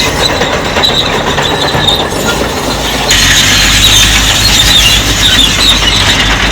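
Crawler bulldozer working, its diesel engine running under the squeal and clatter of its steel tracks. The sound grows louder about three seconds in.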